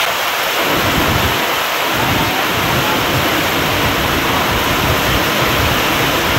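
Heavy rain pouring down around a metal-roofed shed as a loud, steady hiss. Low rumbling comes and goes underneath from about a second in.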